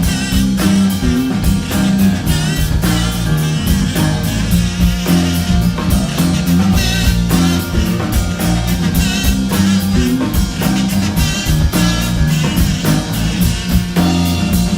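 A live rock band playing an instrumental passage between verses: drum kit keeping a steady beat with bass and guitar, no singing.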